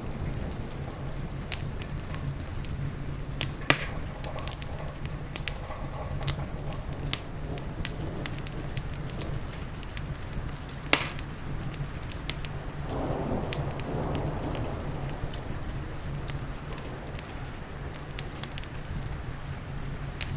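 Wood fire crackling with scattered sharp pops, two louder ones about 4 and 11 seconds in, over a steady hiss of heavy rain.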